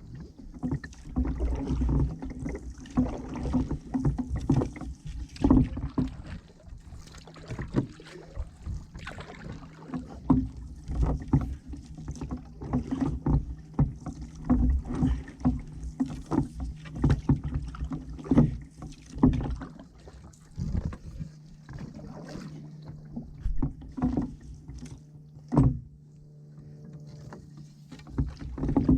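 Wooden ash paddle dipping and pulling through the water beside a solo canoe, in irregular short splashes and sharp knocks with drips in between.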